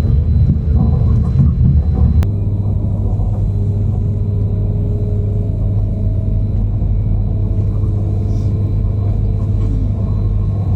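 Steady low rumble of a running vehicle or engine.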